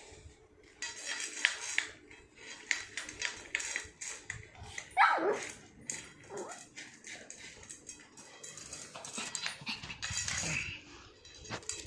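A dog whimpering and barking, with one loud cry about five seconds in that falls steeply in pitch, over scuffling and clicking noises.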